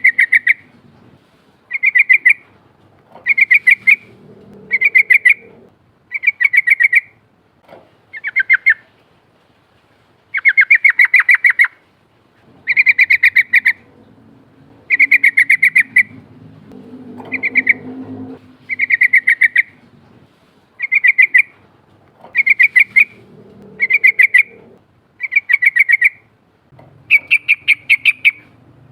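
Yellow-vented bulbul singing its rolling song: short, fast bubbling phrases about a second long, repeated over and over roughly every second and a half. This is a lure song used to draw a response from wild-caught bulbuls.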